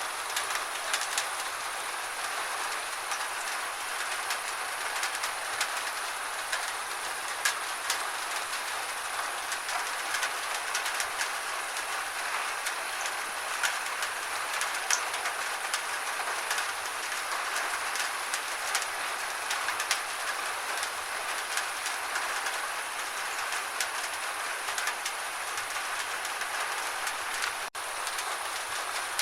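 Gentle rain falling steadily, an even hiss dotted with many small sharp drop ticks.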